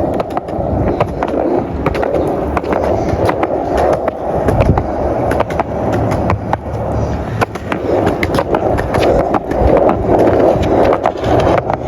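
Skateboard wheels rolling steadily over rough pavement, a continuous gritty rumble broken by frequent sharp clicks and knocks.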